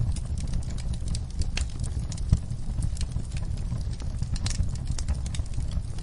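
Wood fire crackling in a fireplace: irregular sharp pops and snaps over a steady low rumble, with one louder pop a little over two seconds in.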